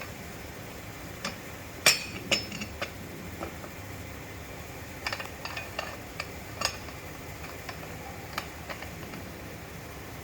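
Renault Clio 2 steering rack knocking as the steering is worked: a dozen irregular sharp metallic clicks over a steady hum, the loudest about two seconds in and a quick cluster around the middle. The knocks are the steering rack noise fault that the car is being checked for.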